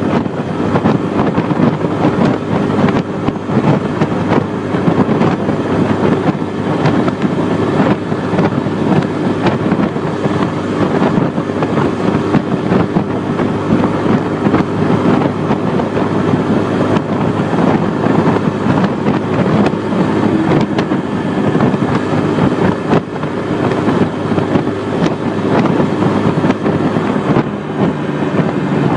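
Bajaj Boxer BM 125 X motorcycle's single-cylinder engine running steadily on the move, with wind noise on the microphone.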